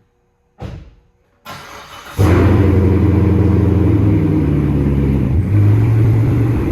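Chevrolet Corvette cold start: a thump, a brief crank, then the engine catches about two seconds in and settles into a loud, steady idle without being revved.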